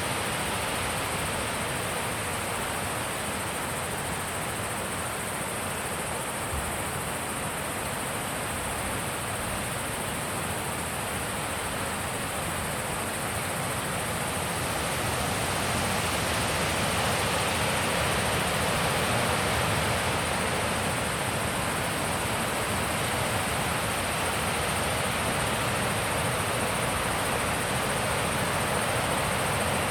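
Wind blowing steadily, a broad rushing noise that grows louder about halfway through and stays up.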